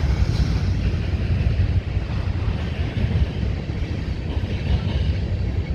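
Steady low rumble and hiss of a freight train rolling through, with no separate clanks or horn.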